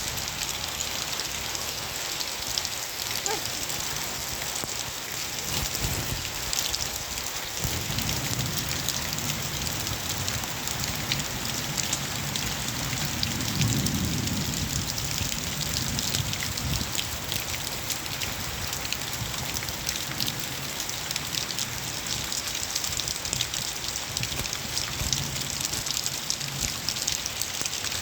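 Steady rain falling, with many drops pattering on surfaces. A low rumble swells briefly about halfway through.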